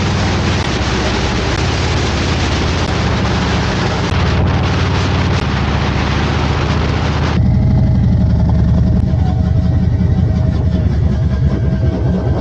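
Harley-Davidson motorcycle's V-twin engine running under way, with heavy wind rush on the microphone. About seven seconds in, the wind rush drops abruptly and the engine's low throb comes forward.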